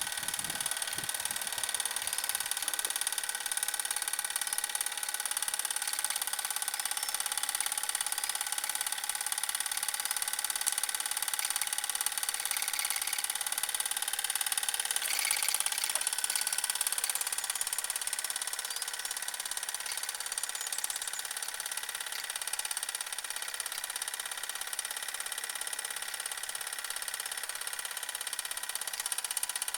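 Mamod TE1a model steam traction engine running steadily after repair, its single oscillating cylinder and gearing making a fast, even, high-pitched mechanical run.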